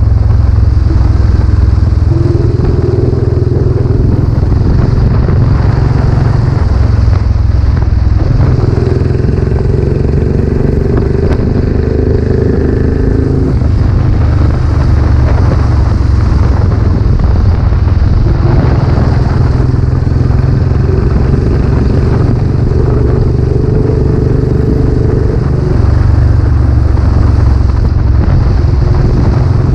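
Royal Enfield Classic 500's air-cooled single-cylinder engine running under way through its newly fitted aftermarket silencer. The engine note steps up and down several times as the revs change.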